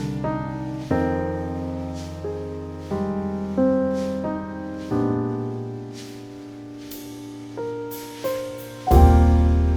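Slow, calm piano music: struck chords and single notes left to ring, with a new low chord every two seconds or so and the loudest one near the end.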